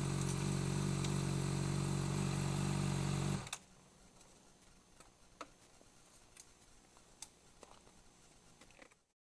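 2008 Honda CBR600RR's inline-four engine with a Two Brothers Black Series exhaust idling steadily, then cutting off suddenly about three and a half seconds in. Near silence follows, with a few faint clicks.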